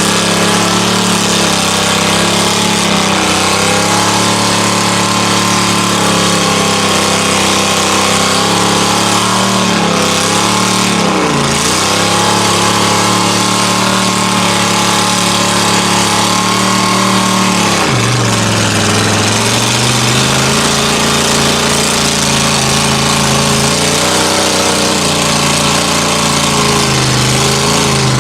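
Mud truck engine running hard at steady high revs, its pitch dipping briefly twice, once near the middle and again about two-thirds of the way through.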